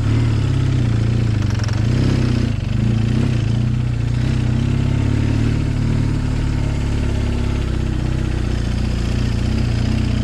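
BMW R1200GS boxer-twin engine running as the motorcycle is ridden slowly over loose sand, its pitch wavering with small throttle changes over the first few seconds, then holding steady.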